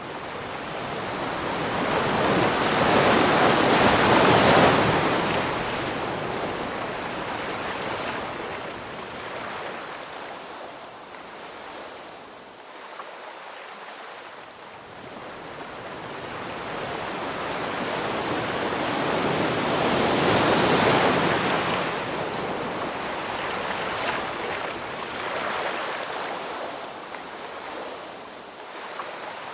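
Ocean surf: waves breaking and washing in, with two big swells of rushing water, the first loudest about four seconds in and the second about twenty seconds in. Softer hiss of receding water fills the time between them.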